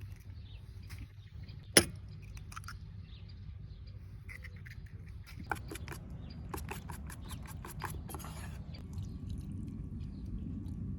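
A low steady rumble, with one sharp click about two seconds in and a quick run of light ticks and clicks a few seconds later.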